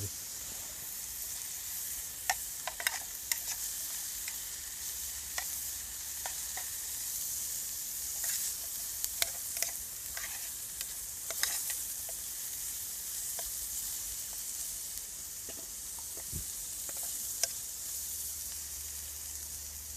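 Bacon pieces frying in very hot oil in a pot: a steady sizzle with sharp pops and crackles every second or two.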